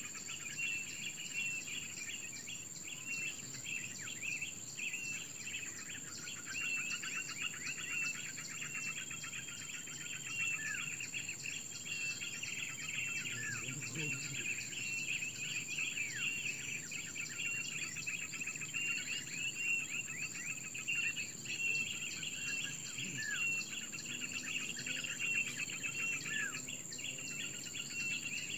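Small birds chirping rapidly and repeatedly, with short down-slurred notes every few seconds, over a steady high-pitched insect drone.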